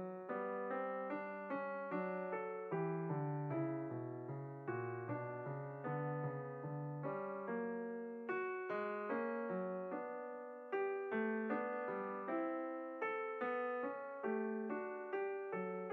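Background piano music: a calm melody of evenly paced notes, each struck and fading.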